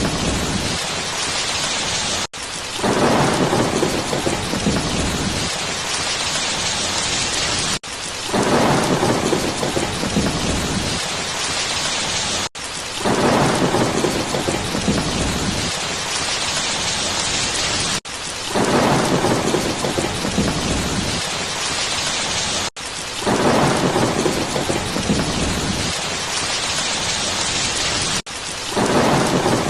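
Steady heavy rain with thunder: a low rumble swells at the start of each stretch and fades into the rain. The pattern repeats about every five seconds, each time after a brief cut in the sound, like a short recording looped.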